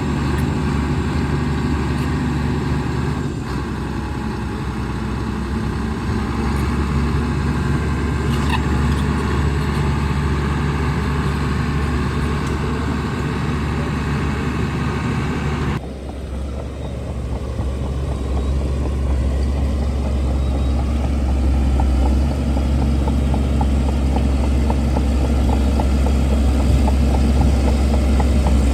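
Bulldozer's diesel engine running steadily under work. About halfway through, the sound changes abruptly to a deeper, duller engine hum.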